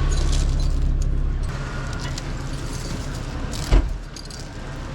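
A motor vehicle engine idling steadily, with a single sharp metallic clunk a little under four seconds in.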